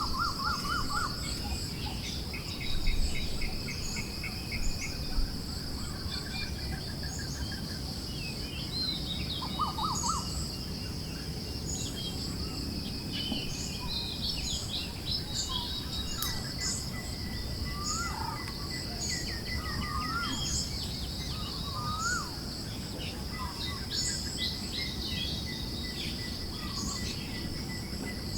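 Forest ambience: assorted birds chirping and warbling in short scattered calls over a steady high, pulsing insect trill, with a low wind rush underneath.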